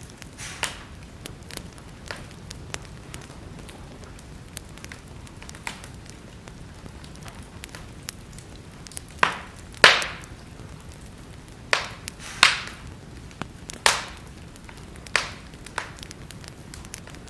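Wood fire crackling in a fireplace: a soft steady hiss with scattered small crackles, then about six loud, sharp pops in the second half.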